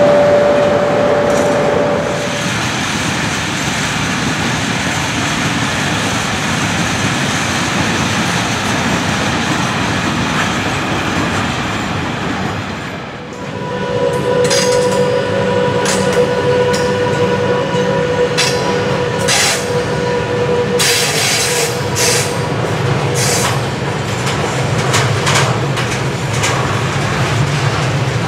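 Freight trains rolling past on electrified track: first a steady rumble and rattle of empty flat wagons, then, after a change about 13 seconds in, a second freight train loaded with steel coils. The second train brings a steady whine with wheel squeal and short sharp clicks of wheels over rail joints.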